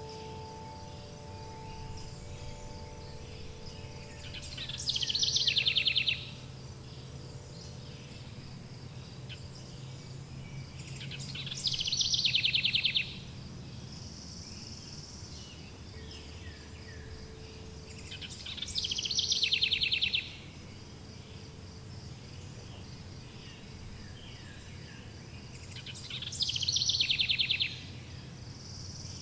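A bird's fast trilled song, a brief high note running into a rapid descending trill, repeating four times about every seven seconds. Under it runs a steady high insect-like chirring and a low background hum, with a few wind-chime tones dying away at the start.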